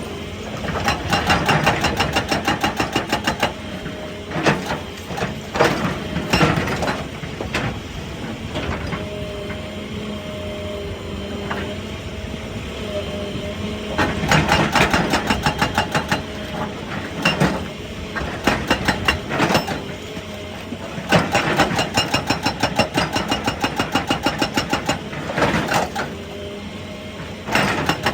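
Excavator-mounted hydraulic breaker hammering rock in rapid bursts of blows, several a second, with the excavator's diesel engine running steadily between the bursts.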